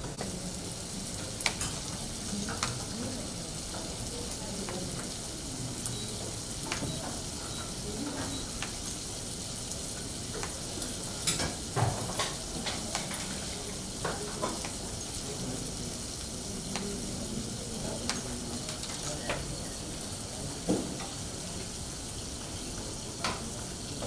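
Chopped tomatoes and peppers frying in a non-stick pan with a steady sizzle, with scattered sharp clicks and knocks of knife and utensils.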